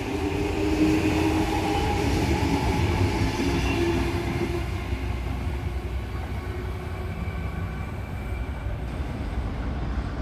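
A train running through the station: a steady motor hum and rail rumble that gradually fade as it moves away, the hum dying out about halfway through.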